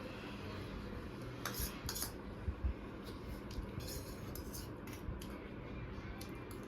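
Cutlery clinking and scraping against a plate while food is eaten, in a string of short, sharp clicks.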